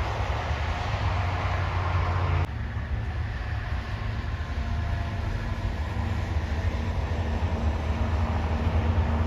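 Heavy truck engine with a steady low drone as it climbs uphill under load. About two and a half seconds in, the sound drops abruptly, then carries on steadily.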